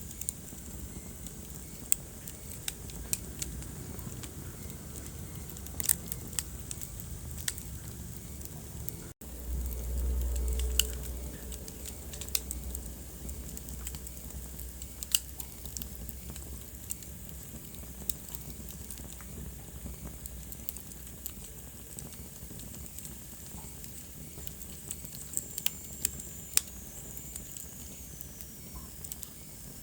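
Wood fire crackling, with sharp pops and snaps scattered through over a low steady rumble of flames. The sound cuts out for an instant about nine seconds in, and the low rumble swells for a second or two just after.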